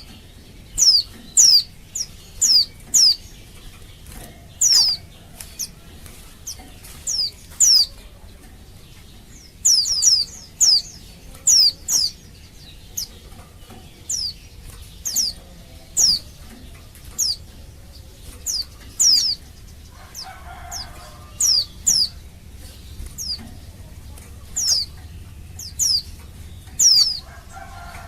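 Female white-eye (pleci) giving short, high-pitched calls that sweep sharply downward. They come singly or in quick runs of two or three, a few seconds apart. This is the female's call to males, which is used as a lure to set male white-eyes calling.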